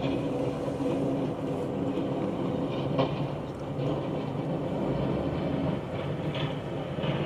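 A heavy vehicle's diesel engine running steadily, with a short sharp clank about three seconds in.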